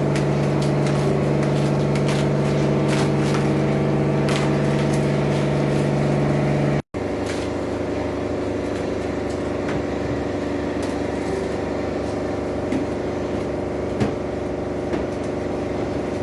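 Self-service car wash pressure washer running on its soap cycle: a steady motor-pump hum under the hiss of the spray. It breaks off abruptly for an instant about seven seconds in, then carries on.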